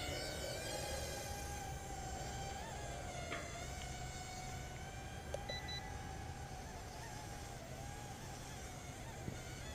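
Hubsan X4 H107C mini quadcopter's four small coreless brushed motors whining in flight: a steady high-pitched buzz whose pitch wavers slightly as the throttle changes.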